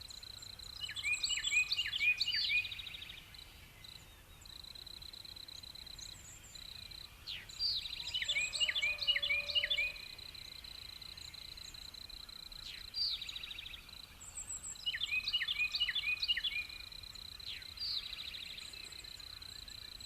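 A songbird sings three times, each song a quick run of repeated high chirping notes that ends in a short rattle. Under it runs a steady high-pitched buzz.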